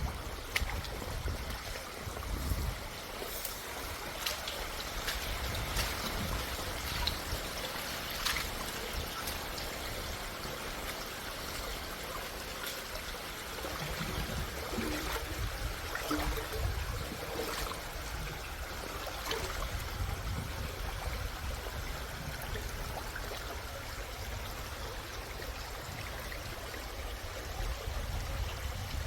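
Mountain valley stream running over rocks: a steady rush of water with small splashes and trickles throughout, and a low rumble underneath.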